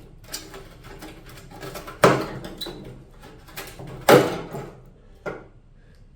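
Knocks and clatters of metal parts and tools being handled in a workshop, with three louder clanks that ring briefly, about two seconds apart.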